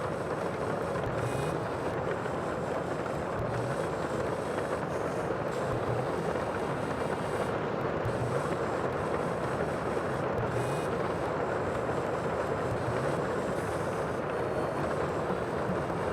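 Sea ambience: a steady, even rush of water noise with no distinct swells or breaks.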